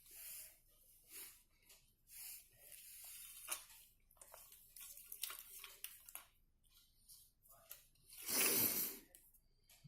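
Hands working a front-loader washing machine's door lock switch and test wires with a screwdriver: scattered light clicks and brief rustles, with one louder rustle lasting under a second near the end.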